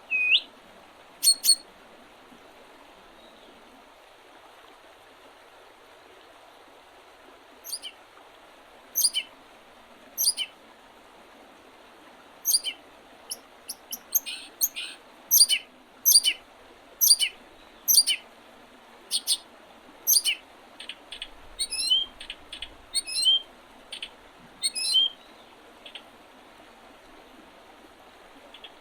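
Small songbirds calling with short, sharp rising chirps, a couple at the start, then after a pause coming about once a second and growing denser in the second half, over a steady soft background hiss.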